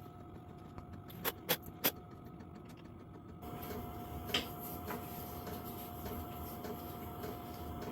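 A few sharp clicks or taps, three in quick succession in the first two seconds and one more about four seconds in, over a faint steady hum.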